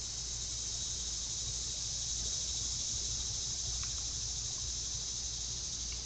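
Steady high-pitched chorus of insects, a continuous buzzing shimmer, with a low hum underneath.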